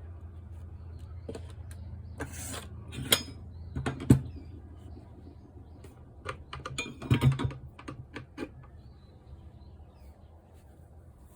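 Irregular clicks and knocks of a cordless angle grinder and its parts being handled, with a few louder knocks about three, four and seven seconds in.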